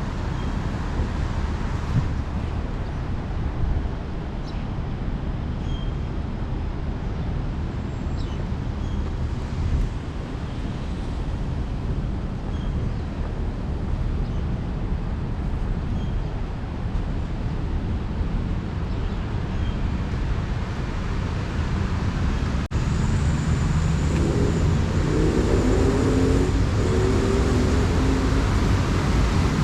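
Road traffic on a busy city street: a steady rumble of passing vehicles. Near the end it grows louder as a nearby engine changes pitch.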